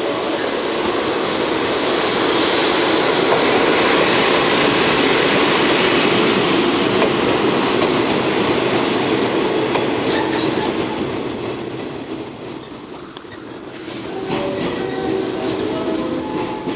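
JR DD51 diesel-hydraulic locomotive passing close by at low speed with its engine running, followed by the cars of a hauled train rolling past. The wheels clatter on the rails and give a few brief high-pitched squeals in the latter part.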